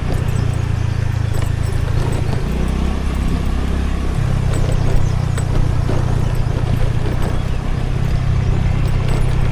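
Scooter engine running on the move under wind and road noise. Its note drops about two and a half seconds in and rises again a couple of seconds later.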